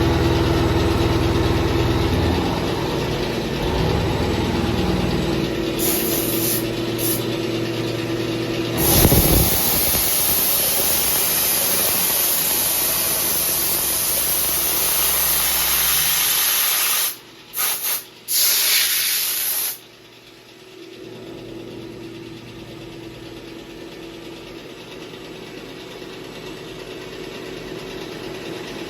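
Vertical machining centre running a milling job: a steady machine hum with one held tone. A loud hiss joins about nine seconds in, drops out briefly twice, and stops about twenty seconds in, after which the machine runs more quietly.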